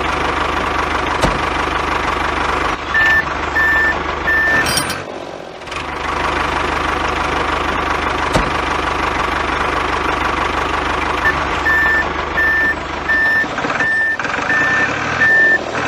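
Heavy vehicle engine running steadily while a reversing alarm beeps: three beeps about three seconds in, then a longer run of beeps at about two a second near the end. The engine sound breaks off briefly about five seconds in.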